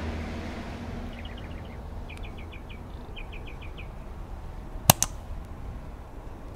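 A small bird chirping in three quick runs of short, high notes over a low outdoor rumble of wind on the microphone, then two sharp clicks in quick succession about five seconds in.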